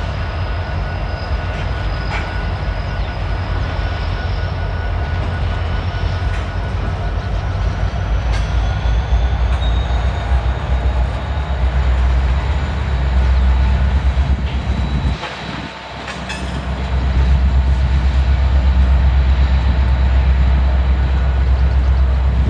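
A train rolling past, its cars' wheels on the rails making a loud, steady rumble with faint high squealing tones. The sound drops briefly about two-thirds of the way through, then comes back as loud as before.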